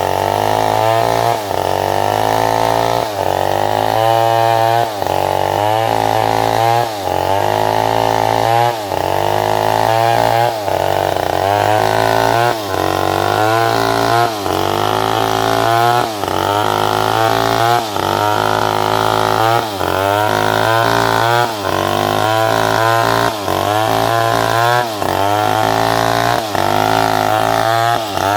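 Chainsaw cutting through salam wood, the engine running at full throttle. Its pitch sags under load and picks back up about every second and a half to two seconds.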